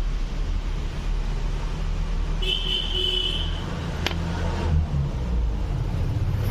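Steady low rumble of a running vehicle engine or road traffic. About two and a half seconds in, a high horn-like tone sounds for about a second, and a sharp click follows about four seconds in.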